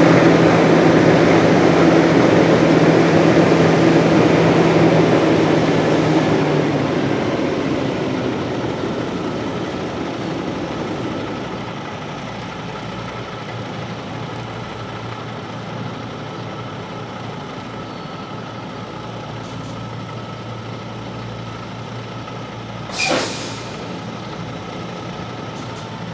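Tractor-trailer's diesel engine running, its note dropping in pitch about six seconds in and growing quieter over the next several seconds before settling to a low steady hum. A short sharp hiss of air comes near the end.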